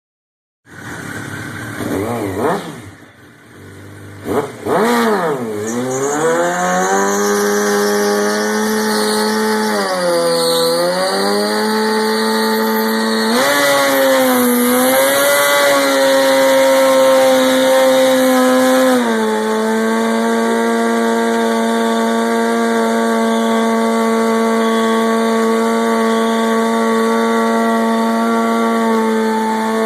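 Motorcycle engine held at high revs during a burnout, spinning the rear tyre in an attempt to pop it. A few quick throttle blips open it, then the revs hold high and steady, dip briefly about ten seconds in, climb again a little later, and settle to a lower steady note towards the end.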